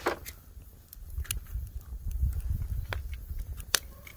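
Wood campfire crackling under oysters grilling on a grate, with a few sharp, irregularly spaced pops over a steady low rumble.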